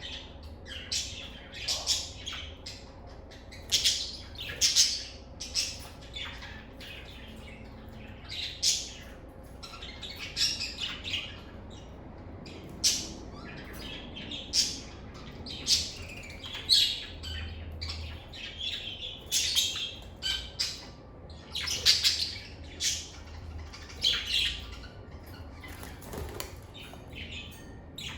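Lovebirds chirping and squawking: a rapid run of short, shrill calls, several a second at times, one after another.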